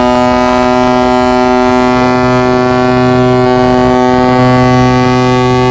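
Large cargo ship's horn sounding one long, loud, steady blast on a single low pitch.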